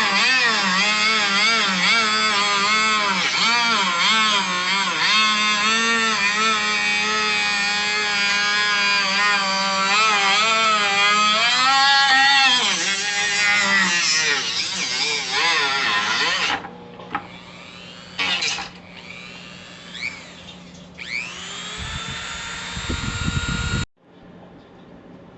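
Drill press driven by a treadmill motor, running with a whine that wavers up and down in pitch as the load changes. About 16 seconds in it drops away, with a few short knocks. Then a whine rises as the motor spins up again, and the sound cuts off abruptly near the end.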